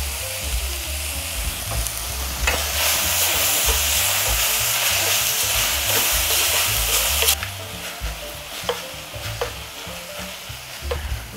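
Sliced pork belly and leeks sizzling in sesame oil in an aluminium pot while being stirred with a wooden spatula. The sizzle swells louder from about two and a half seconds in, holds for about five seconds, then dies down, with a few knocks of the spatula against the pot.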